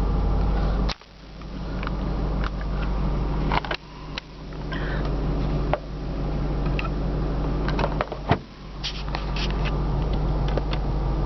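Steady low hum of a running car heard from inside its cabin, broken by several sharp clicks and knocks of handling. The loudest knocks come a little after one second, near four seconds and about eight seconds in, each followed by a sudden dip in level that slowly recovers.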